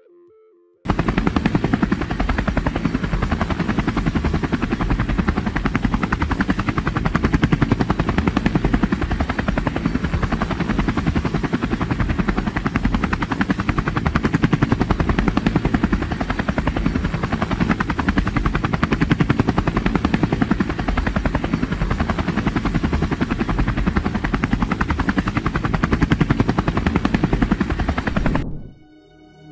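Helicopter rotor blades chopping steadily in a rapid beat with engine noise underneath; the sound starts suddenly about a second in and cuts off abruptly near the end.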